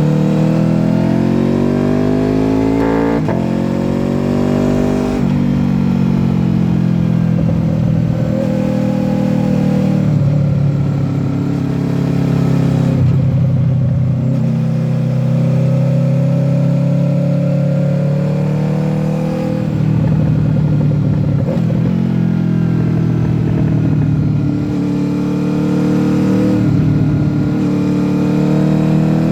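Honda VFR800F's 782 cc V4 VTEC engine on an SC-Project exhaust, accelerating hard through the gears with sudden pitch drops at upshifts about 3 and 5 seconds in. It then rises and falls repeatedly as the throttle is opened and closed through a series of bends.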